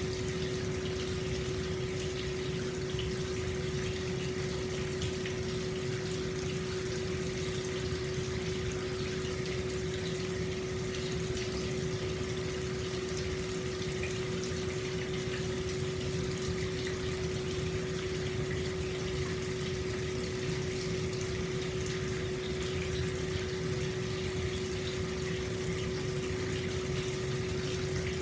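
Hot spring water pouring steadily into an open-air stone bath, an even splashing rush, with a constant low hum underneath.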